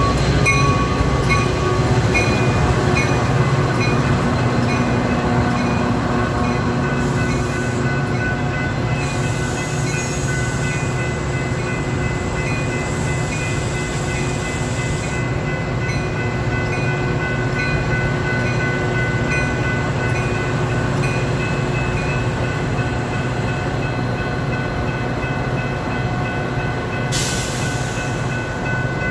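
Metra diesel-hauled commuter train running through the station, a steady rumble with steady tones over it.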